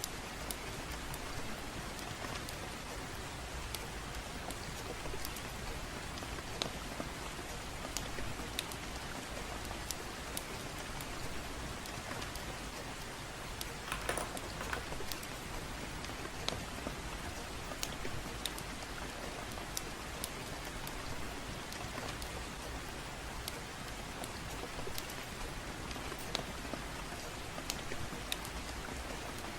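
Steady gentle rain with scattered sharp crackles and pops from a wood fire, coming irregularly a few at a time, with a brief cluster about halfway through.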